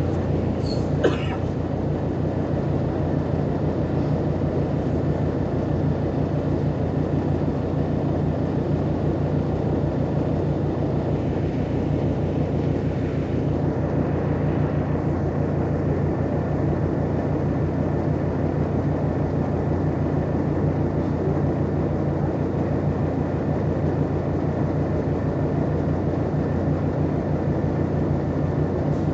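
Volkswagen Volksbus 18-280 OT LE city bus diesel engine idling steadily at one even pitch. A brief high-pitched squeal sounds about a second in.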